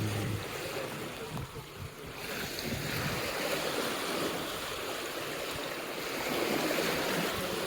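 Sea surf washing onto the beach, a steady rush of water that swells louder about two seconds in.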